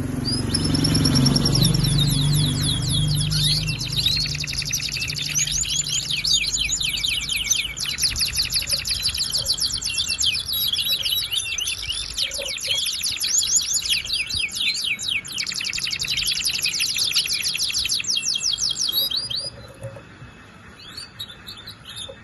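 Domestic canary singing a long, fast song of rapid repeated trills and rolls, which breaks off sharply near the end, leaving only faint sound.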